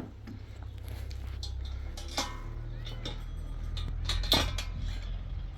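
Two sharp clinks or knocks, one about two seconds in and a louder one a little past four seconds, over a steady low rumble.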